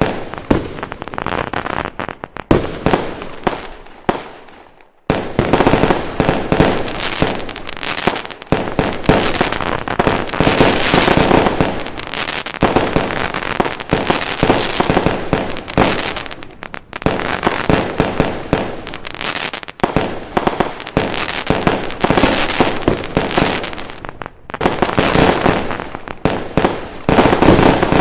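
Fireworks going off in a dense, continuous barrage of bangs and crackling. About four seconds in the barrage dies away, then it resumes suddenly a second later and keeps up.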